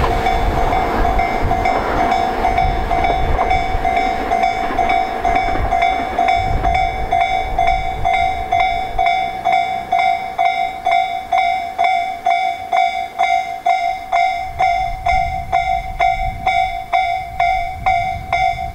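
Tobu 500 series Revaty electric train running away along the track, its rumble fading over the first several seconds, while a railway level-crossing bell dings steadily about twice a second. Near the end the rumble of another approaching train builds up.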